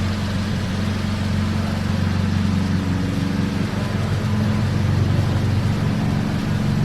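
A 2015 Volkswagen GTI's turbocharged four-cylinder engine idling steadily through a Borla cat-back exhaust, a low, even drone.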